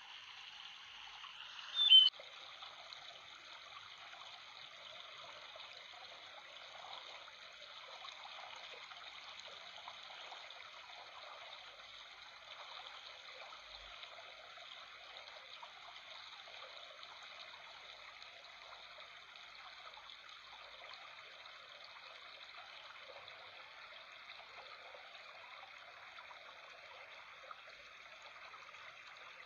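Water trickling and babbling steadily, like a small stream, with one brief loud pop about two seconds in.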